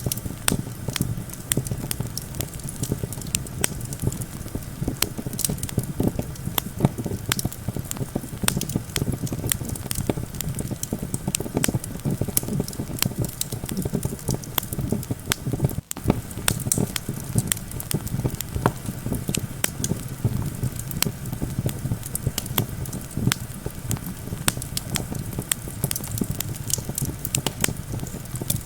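Campfire crackling with a steady stream of sharp pops and snaps over a low, steady rumble of wind. About halfway through, the sound drops out for an instant.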